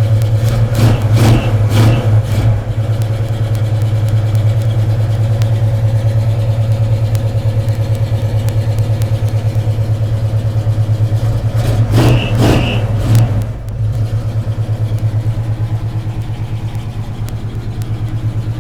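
1981 Chevy Blazer's small-block V8 with headers idling through the exhaust with a fast, even pulse. It is still warming up after a cold start without a choke, and gets two brief throttle blips, one about a second in and one about twelve seconds in.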